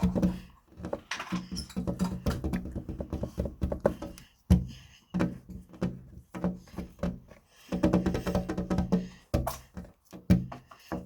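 Slime being squished and pressed by hand, giving dense runs of wet clicks and pops with a few brief pauses.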